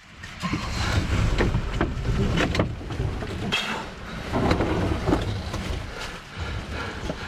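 Footsteps crunching and brush rustling along a wet portage trail, irregular steps about every half second, with a low wind rumble on the microphone throughout.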